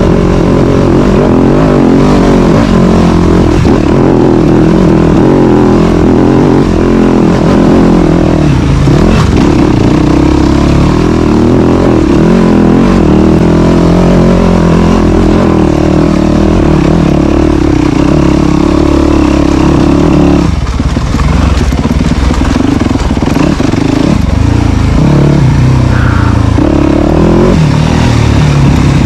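Dirt bike engine running hard on a trail, revving up and down with throttle changes, holding a steadier pitch for several seconds before the throttle comes off about two-thirds of the way through.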